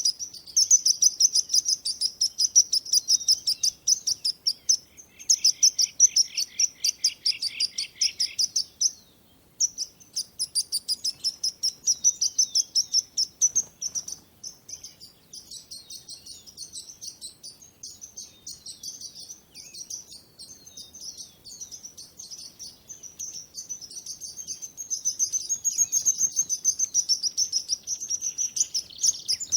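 Small songbirds chirping in a dense, fast run of high chirps, many a second, with a brief lower trill joining in about six seconds in and a short break near nine seconds.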